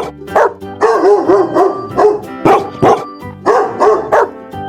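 A dog barking repeatedly in short, sharp barks, about eight or nine of them, over background music.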